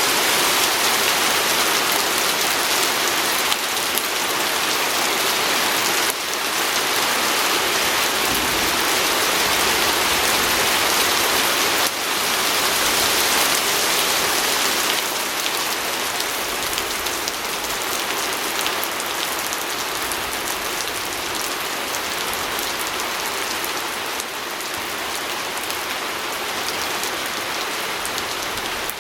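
Steady, dense rain falling on window glass.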